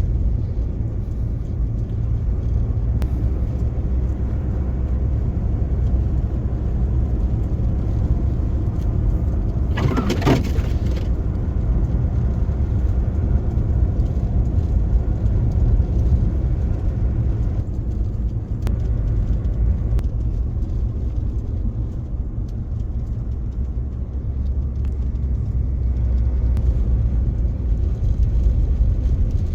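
Pickup truck driving on the highway, heard from inside the cab: a steady low engine and road rumble. About a third of the way in, a brief higher pitched sound with a rise and fall in pitch sits over it.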